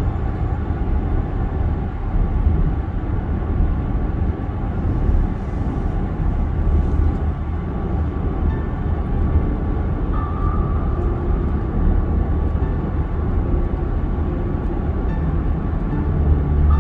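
Steady road and tyre noise from a VinFast VF8 electric SUV driving on a wet highway at speed in the rain.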